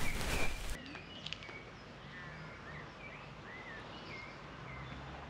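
Small birds chirping in short, scattered notes over a quiet rural background, after a brief rushing noise in the first second.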